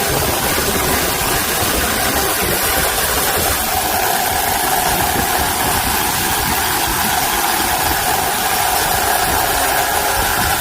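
Chainsaw running steadily through firewood cutting, with a steady higher tone joining in about four seconds in.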